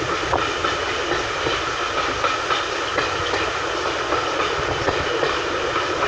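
Railway coach running along the track, heard from inside: a steady rolling rumble of wheels on rail with light clicks over the rail joints.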